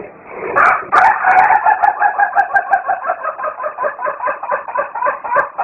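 A chicken giving a long, rapid run of repeated cackling notes, about four a second, that sounds like laughter.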